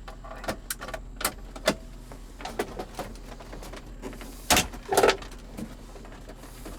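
Hard plastic interior console trim clicking and knocking as it is handled and pushed at, with scattered light clicks and two louder knocks about four and a half and five seconds in.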